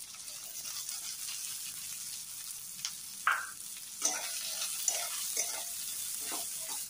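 Chopped onion sizzling in hot oil in a metal wok as it is tipped in, then a metal spatula scraping and stirring it around the pan in repeated strokes from about halfway through.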